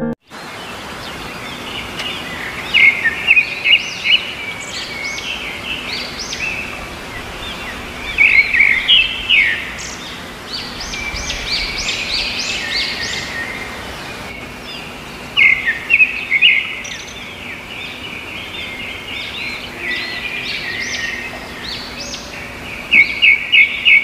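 Small birds chirping and singing in repeated bursts of quick high notes over a steady background hiss.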